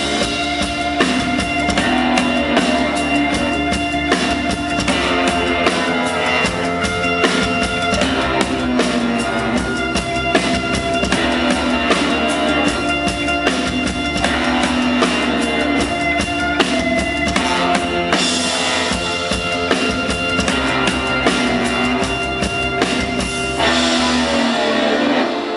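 Rock band playing live, an instrumental passage without vocals, with the drum kit prominent and guitar underneath.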